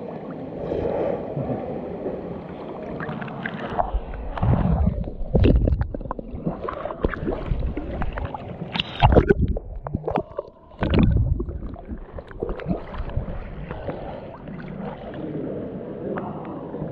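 Water sloshing and gurgling around a camera held at or just under the water surface, heard muffled, with several heavy low thumps of water against the microphone partway through.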